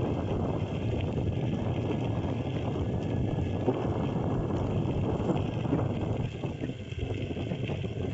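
Isinwheel V10 electric skateboard rolling on its off-road tyres over a rough, bumpy path: a steady rumble of wheel and deck noise with wind buffeting the microphone. It eases off about six seconds in.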